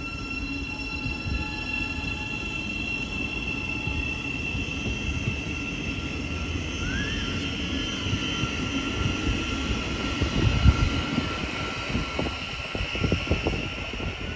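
Train moving through a station: a steady low rumble with a high, steady squeal from the wheels and brakes running over it, and a quick run of knocks near the end.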